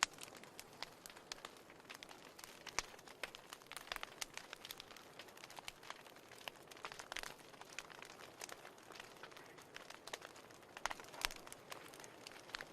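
Wood fire burning in a fireplace, crackling steadily with dense small pops and a few sharper snaps.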